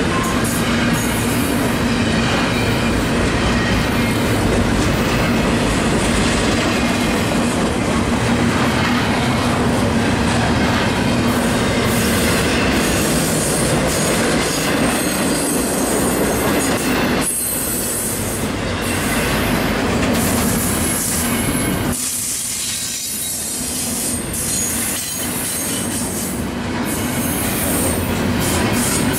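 Steel wheels of loaded double-stack intermodal well cars rolling slowly past on the rail, a continuous heavy rumble and clatter with occasional high wheel squeal. The noise eases for a moment about two-thirds of the way through, then returns.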